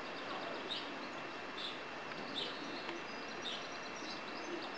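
A bird chirping repeatedly, a short high call about once a second, over steady outdoor hiss.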